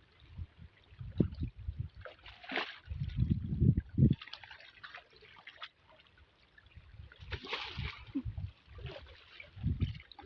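Floodwater splashing and sloshing in irregular bursts, mixed with uneven low thumps and rumbles.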